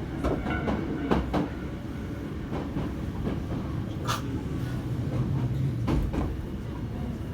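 Inside a moving train car: a steady low rumble with scattered knocks and clacks.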